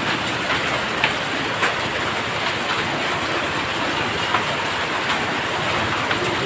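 Heavy rain pouring in a steady hiss, with scattered sharp ticks of hailstones striking, several over the few seconds.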